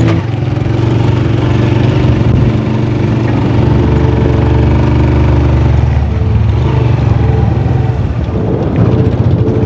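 Honda 125 motorcycle's single-cylinder engine running steadily as it is ridden, its pitch shifting a couple of times.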